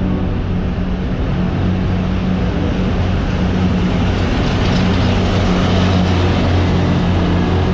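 Passenger train pulling into the station: a steady low engine hum under rolling noise, which swells a little about four seconds in.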